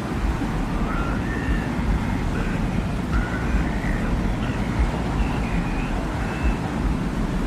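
Steady low desert wind rumble, with faint short whistling tones drifting in and out above it.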